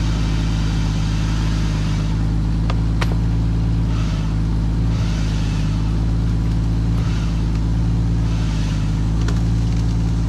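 A motor vehicle's engine idling steadily close by, with a few light clicks about three seconds in.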